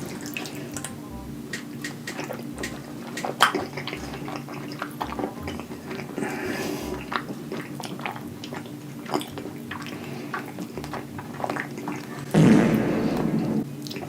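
Close-miked eating of a big bite of creamy chicken Alfredo lasagna: wet chewing and lip-smacking, heard as many small sharp clicks. Near the end comes a louder, noisier sound lasting about a second.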